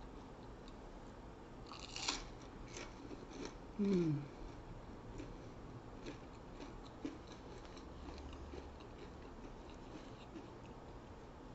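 Close-up mouth sounds of eating: crackly crunching bites around two seconds in, then scattered soft chewing clicks. A short falling pitched sound about four seconds in is the loudest moment.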